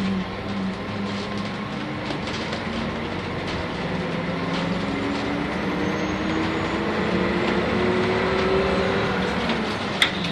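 Cabin running sound of a Nissan Diesel UA city bus with a CNG-fuelled PU6 engine, under way between stops. The engine note rises steadily in pitch for several seconds as the bus accelerates, over road and body noise. There is one sharp click near the end.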